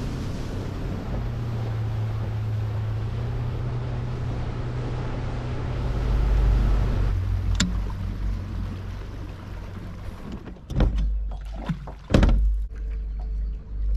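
Boat motor running steadily under way, over a hiss of wind and water. About ten seconds in the motor note stops, and a few loud knocks and thumps follow.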